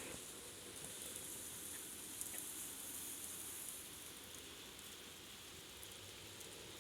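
Steady rain falling: a soft, even hiss with a few faint drip ticks.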